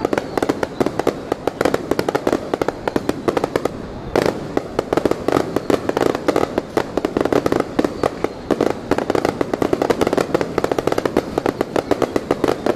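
Fireworks going off in a dense, unbroken barrage of rapid bangs, many a second, with a brief lull just before four seconds in.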